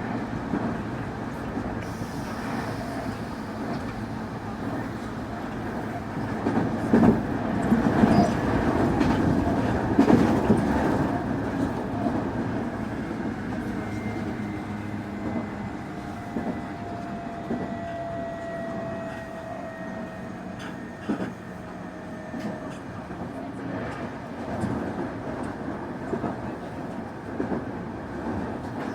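Semboku 9300 series electric train running, with wheels clattering over rail joints and points, loudest about a third of the way in. In the second half, a thin whine from its Hitachi SiC VVVF inverter-driven motors falls slowly in pitch.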